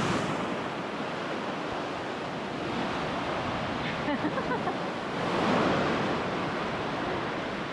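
Ocean surf washing onto a sandy beach, a steady rush that swells as a wave comes in about five and a half seconds in.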